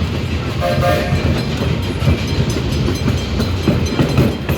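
Steam-hauled train on the Riverside and Great Northern running, a loud steady rumble of locomotive and cars with scattered knocks, and a short whistle toot about half a second in.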